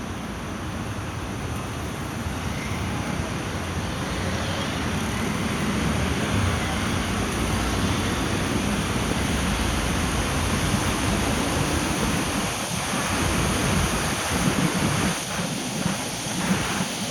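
Steady rushing noise of rain and tyres on a wet road, growing louder over the first several seconds, with a few short bursts of noise near the end.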